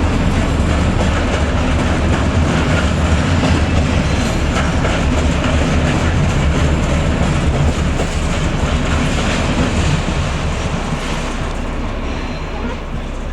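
A train hauled by a class 218 diesel locomotive rolling past with steady running and wheel noise on the rails. It fades gradually from about eight seconds in as the train moves away.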